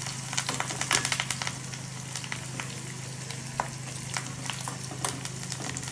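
Sliced onion, green chillies and curry leaves sizzling in oil in a small steel kadai, with a metal spoon clinking and scraping against the pan as they are stirred. The clicks come thick for the first second or so, then thin out.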